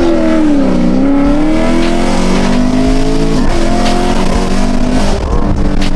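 2019 Camaro SS's 6.2-litre V8, fitted with aftermarket headers and an X-pipe but still running its mufflers, accelerating under load. The engine note climbs, falls away sharply about three and a half seconds in, then holds steady.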